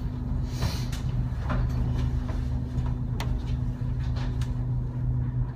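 Aerial tram cabin riding downhill: a steady low hum and rumble, with a brief rush of noise about half a second in and a few sharp clicks and rattles.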